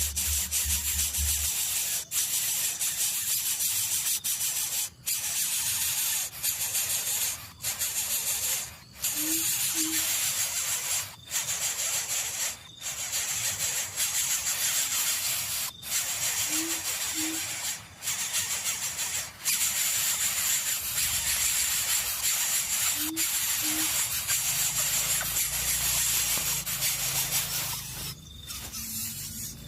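Steady loud hiss, broken by brief dropouts every second or two, with three pairs of short, deep hoots about seven seconds apart, typical of a coucal's call.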